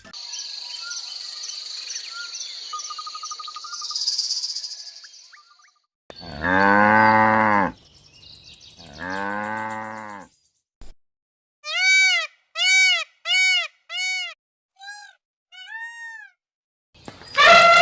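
A cow mooing twice, two long low calls each lasting over a second. Before them comes a high-pitched chirring with regular ticks, like insects; after them a run of seven short rising-and-falling calls from another animal, and a loud falling call begins near the end.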